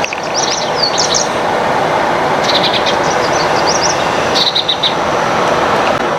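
Small birds chirping in quick high twitters and short rising notes, in three clusters, over a loud, steady rushing background noise.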